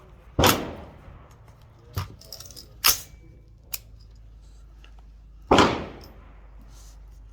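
Rifle gunshots, single shots spaced a second or more apart. The two loudest come about half a second in and about five and a half seconds in, each ringing out briefly. Two quieter shots fall around two and three seconds in.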